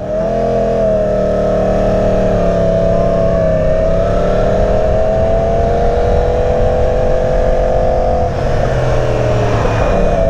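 Motorcycle engine running at steady revs while riding, its note wavering slightly; it drops briefly about eight seconds in, then picks up and climbs again.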